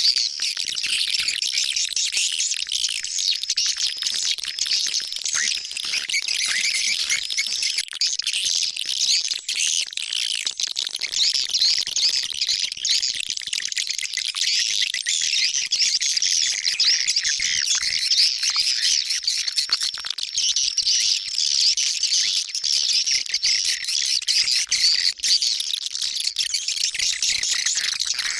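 A recorded lure call for edible-nest swiftlets: a dense, unbroken high twittering of many overlapping chirps at a steady level, played to draw swiftlets into a nesting house.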